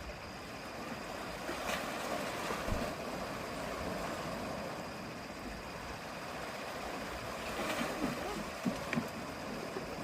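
Small sea waves washing in and breaking at the water's edge, a steady wash that swells about two seconds in and again near eight seconds.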